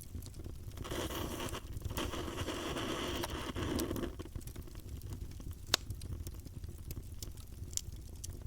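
Campfire burning, with a low steady rumble and scattered crackles. A louder hiss lasts about three seconds from about a second in, and one sharp pop comes past the middle.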